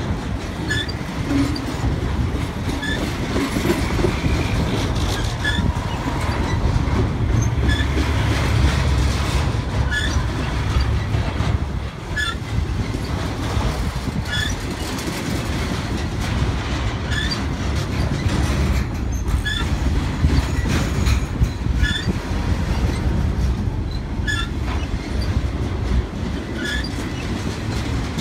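Intermodal freight train of spine cars carrying highway trailers rolling steadily past on the track. Its wheels make a continuous low rumble and click over the rail, with a short high wheel squeal about every two seconds.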